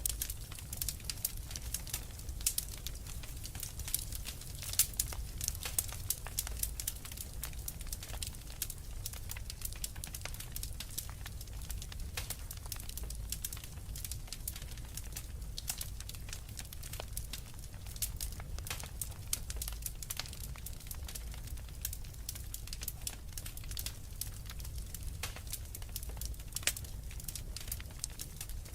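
Wood fire in a fireplace crackling steadily, with many small irregular pops and snaps over a low rumble.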